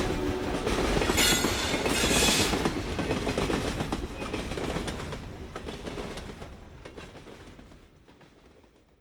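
Train rolling on the rails, the wheels clacking steadily, with a brief burst of high hiss a little after a second in; the whole sound fades out gradually to silence.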